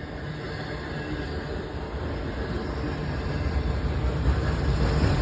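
Freight train of autorack cars rolling past on the track, a steady noise of wheels and cars that grows gradually louder toward the end.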